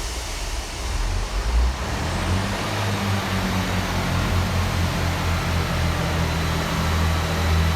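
Class 158 diesel multiple unit's underfloor diesel engines pulling away from the platform. A low engine rumble builds after about a second and then holds steady.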